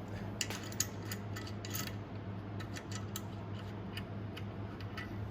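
Scattered light clicks and small metallic taps from parts being handled, over a steady low hum.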